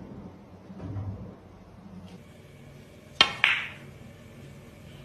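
Two sharp clinks about a quarter second apart, roughly three seconds in, each with a brief high ring; otherwise low room noise.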